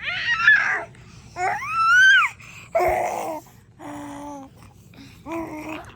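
A baby babbling and squealing in about five short calls, one a high squeal that rises and falls about two seconds in.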